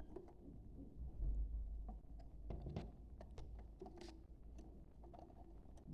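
Faint budgerigar chatter: scattered short clicks and brief soft chirps over a low hum.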